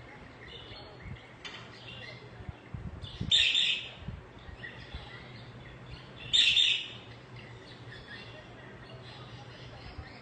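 Budgerigars chirping and chattering: soft warbling throughout, with two loud, short, shrill calls about three seconds apart.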